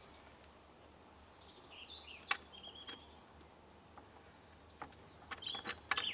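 Small birds chirping and twittering, in short high calls. A few light clicks and taps come about two seconds in and again near the end, as the turntable's centre spindle is handled.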